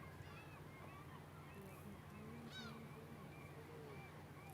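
Faint birds calling: many short chirping calls, with one louder, clearer call about two and a half seconds in, over a steady low hum.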